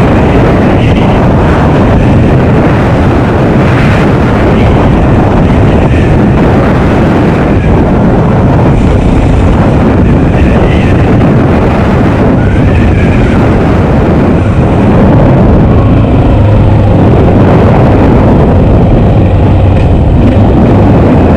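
Honda XR650L's single-cylinder four-stroke engine running steadily as the dirt bike is ridden, mixed with wind rushing over the microphone.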